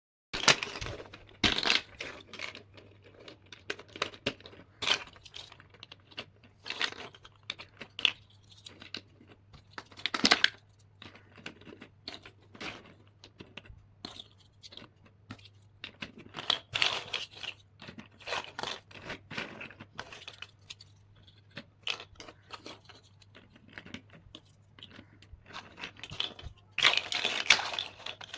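Hands working with plastic building-block pieces and their packaging: irregular sharp clicks with bursts of rustling and tearing, loudest about ten seconds in, in the middle, and near the end.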